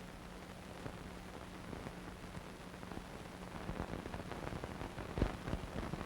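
Steady hiss with a low hum and scattered crackles and pops, the noise of a silent film's transfer rather than any recorded scene sound. The crackles grow denser and louder in the last second or so.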